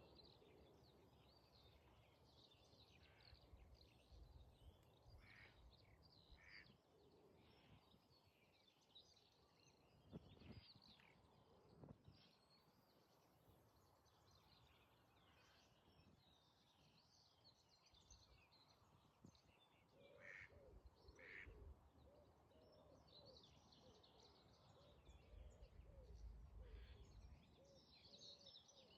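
Faint outdoor ambience of wild birds singing and chirping, with a run of lower wavering calls in the second half. A few brief low rumbles of wind on the microphone.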